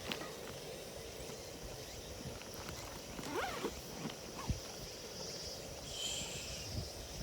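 Open-air field ambience: a steady faint hiss, with a few short gliding chirps about three seconds in, a brief high call a little past the middle, and scattered soft knocks.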